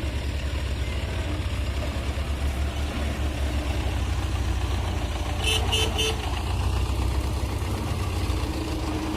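Tractor engine running steadily with a low drone, and three quick short horn toots about five and a half seconds in.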